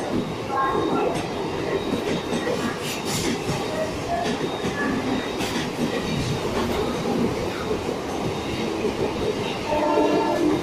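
Passenger train's coaches rolling past, steady rumble of wheels on rail with repeated clicks as the wheels cross rail joints.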